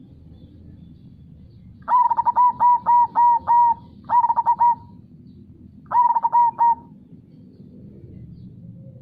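Zebra dove (perkutut) singing its cooing song in three phrases of quick repeated notes, the first phrase the longest, starting about two, four and six seconds in. Underneath runs the low steady rumble of flowing river water.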